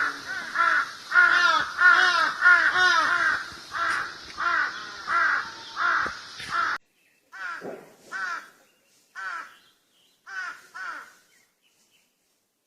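Crows cawing: a fast run of repeated harsh caws, about two a second, over a background hiss for the first half. It then changes abruptly to a cleaner recording with caws in ones and pairs separated by short silences.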